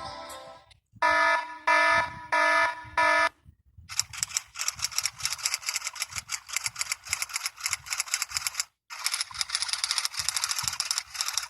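Alarm sound effects: four short pitched buzzes about two-thirds of a second apart, then a fast clattering ring in two long stretches with a brief break between.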